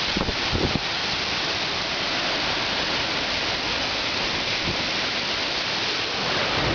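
Heavy rain pouring steadily during a thunderstorm, with wind buffeting the microphone in the first second.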